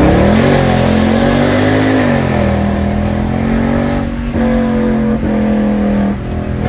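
Mercedes-AMG C63 (W204) 6.2-litre V8 running hard under acceleration. The revs climb for the first half second, then hold, with brief drops about four, five and six seconds in.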